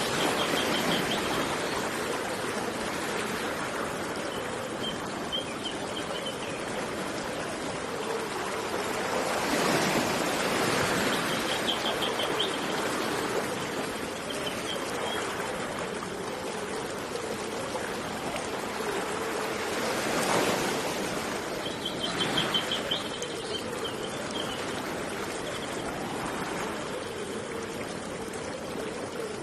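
Steady rushing of a flowing river, swelling louder twice, with a small bird giving short, high, rapid chirping trills several times.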